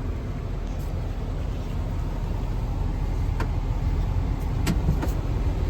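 Ford 6.7-liter Power Stroke V8 turbo diesel idling steadily, heard from inside the cab, with a few light clicks a few seconds in.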